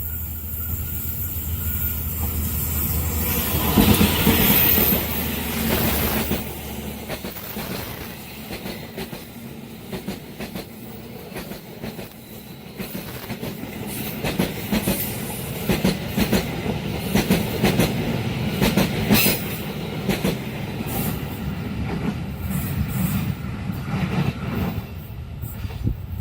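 A diesel-hauled passenger train passing close by: the locomotive goes by loudest about four seconds in, then the carriages follow with a rhythmic clickety-clack of wheels over rail joints that fades near the end.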